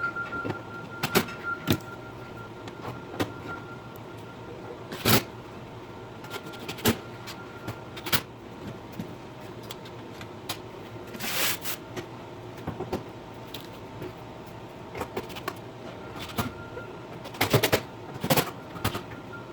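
Sped-up grill-assembly sounds: scattered sharp clicks and knocks of parts and tools being handled, with a longer rasping burst a little past halfway and a cluster of knocks near the end. A faint steady high tone comes and goes underneath.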